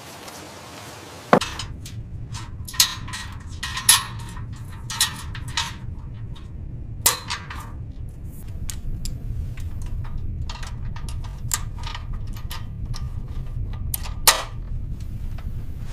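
Sharp metallic clanks and knocks at irregular intervals, like tools striking steel, over a steady low rumble that starts about a second in.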